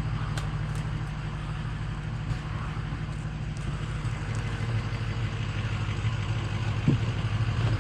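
Large truck engine idling steadily, a low, even drone.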